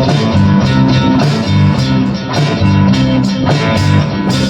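Live rock band playing an instrumental stretch between vocal lines: guitars over a steady drum beat.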